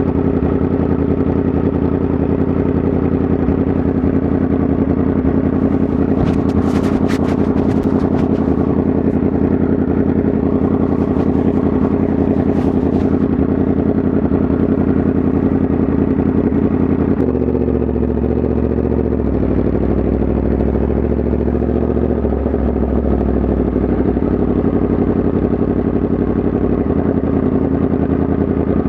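Yamaha MT-10 SP's crossplane inline-four engine running steadily, its note changing about two-thirds of the way through. A few brief clicks come through in the first half.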